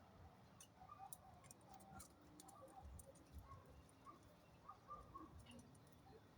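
Near silence, with faint scattered ticks and a few soft, short chirps from small birds.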